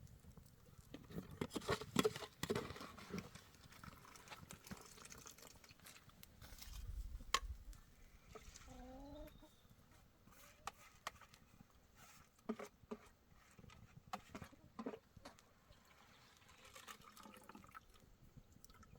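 Faint scattered knocks and rustling, busiest about two seconds in, with a short rising animal call about nine seconds in.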